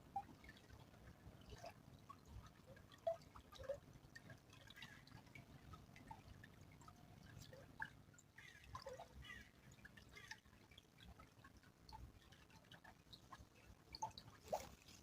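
A small stream trickling faintly, with scattered drips and plinks of water.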